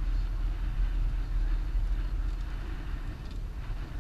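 A Jeep's engine running with a steady low rumble, mixed with wind noise.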